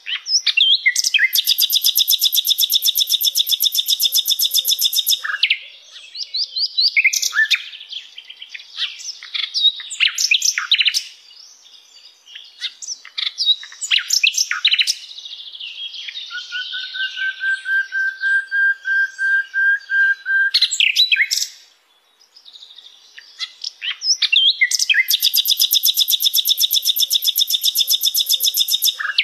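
Sikatan londo flycatcher singing masteran song. Two long, fast trills of rapidly repeated high notes, one at the start and one near the end, frame a run of varied chirps and slurred notes and a long, slightly rising whistle in the middle.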